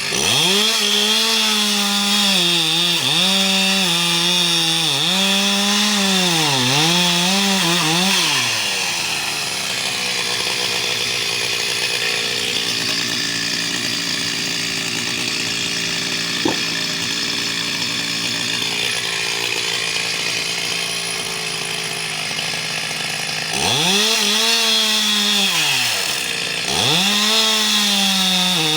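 Two-stroke chainsaw cutting logs into firewood lengths, the engine pitch dropping and recovering again and again as the chain bites into the wood. In the middle it runs more evenly between cuts, then it cuts again near the end.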